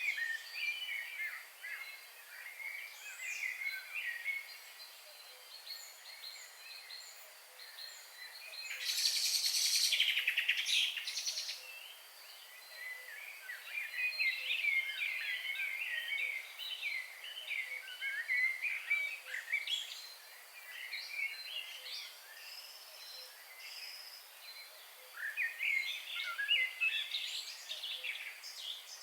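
Wild birds singing and chirping in bursts of quick, twittering high notes, in several bouts with short pauses. About nine seconds in, a loud harsh, rasping sound lasts about two seconds.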